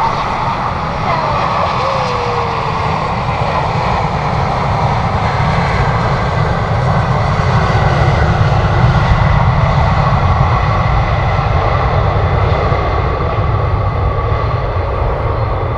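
Jet airliner engines running, a steady loud rush of noise over a deep rumble with a faint high whine, swelling slightly about halfway through.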